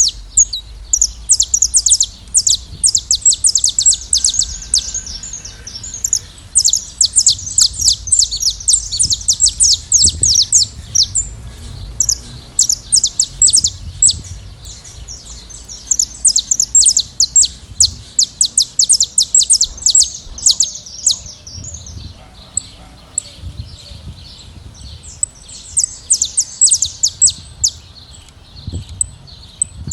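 Saffron finches singing in a flock: long runs of rapid, high chirping notes, with a lull about two-thirds of the way through before the song resumes.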